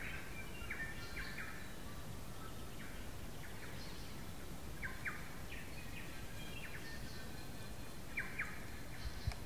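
Wild songbirds calling: short chirps and clear whistled notes, with quick paired notes now and then, over a steady low rumble.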